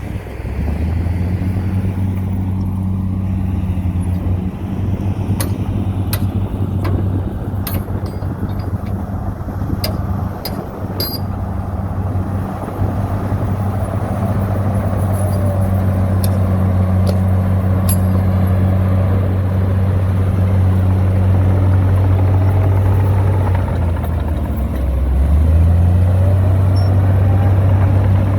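Heavy diesel engine of earth-moving machinery running steadily under load, its pitch dipping and then climbing again about three-quarters of the way through. Scattered sharp clicks and clanks in the first half.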